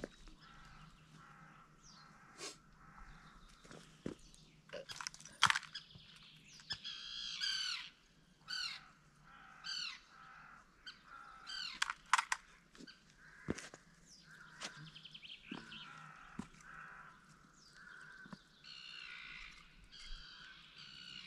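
Birds calling repeatedly, a long run of short harsh calls, with a few sharp clicks and knocks among them.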